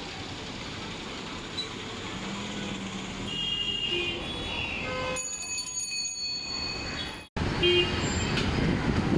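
Busy street traffic running steadily, with vehicle horns tooting now and then. The sound drops out abruptly a little after seven seconds, then the traffic and a horn come back.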